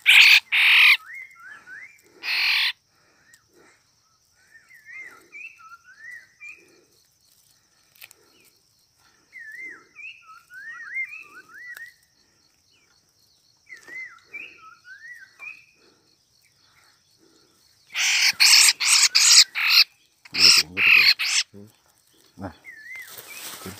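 Whistled bird calls: short phrases sliding up and down in pitch, repeated every second or two. Loud crackling rustles of twigs and leaves being handled at the start and again from about 18 seconds in.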